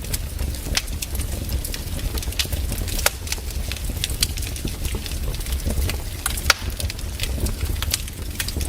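Fireplace fire crackling, with irregular sharp pops over a steady low rumble; one pop about six and a half seconds in is louder than the rest.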